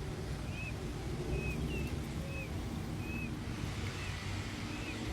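Newly hatched peachicks peeping: a string of short high chirps, about one or two a second, over a steady low rumble of wind and distant traffic.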